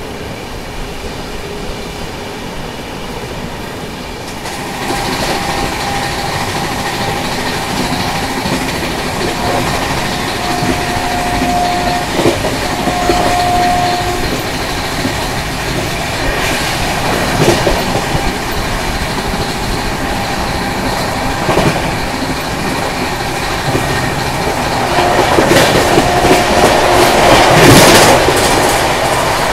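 Rajdhani Express train running through a station at speed without stopping, its rolling and rail noise continuous, getting louder about four seconds in and again near the end, with a few sharp knocks along the way.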